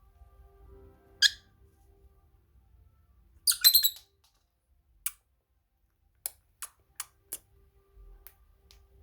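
Lovebirds squawking: a sharp call about a second in, a loud burst of several squawks a little after three seconds, then a run of single short shrill chirps.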